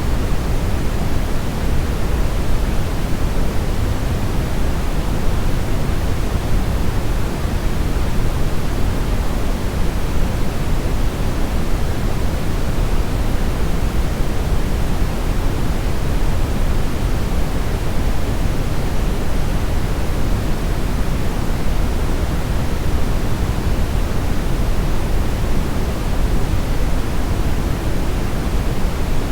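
Steady brown noise: an even rushing hiss, weighted heavily toward the deep end.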